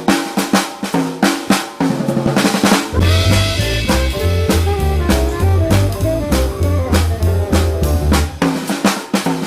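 Jazz combo playing: the drum kit plays alone for about three seconds, then the band comes in with a low bass line and higher pitched notes over the drums, and near the end the drums play alone again, as in trading fours.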